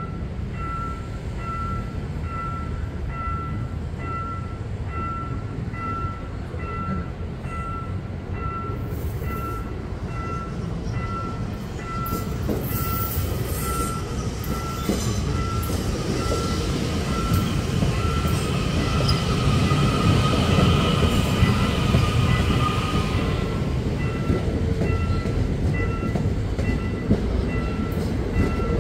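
Level-crossing warning bell ringing in a steady repeated ding while an ITX-Saemaeul electric train approaches and rolls slowly through the crossing. Its wheel rumble builds from about halfway and is loudest in the last third, with a high wheel squeal on the curve partly covering the bell.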